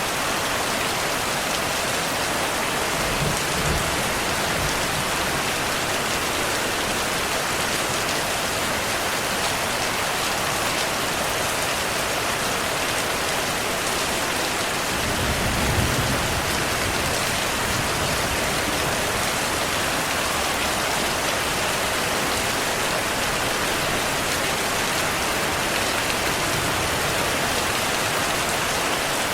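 Steady heavy rain falling, an even hiss throughout. Two low rumbles of distant thunder come in, a short one about three seconds in and a stronger one about fifteen seconds in.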